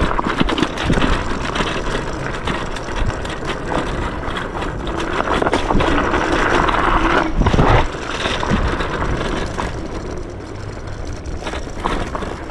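Yume X11 electric scooter ridden along a dirt trail: a steady rushing noise crossed by many knocks and rattles over the ground. It swells in the middle and drops suddenly about eight seconds in.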